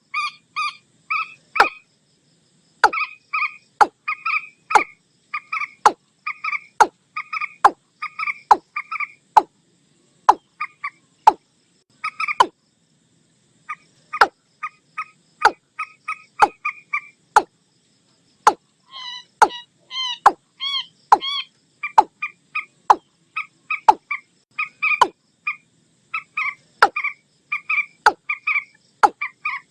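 Watercock calls mixed with common moorhen calls, played as a looped night-time lure recording. Runs of short, croaking notes come several a second, with sharp clicks between them and a couple of brief pauses.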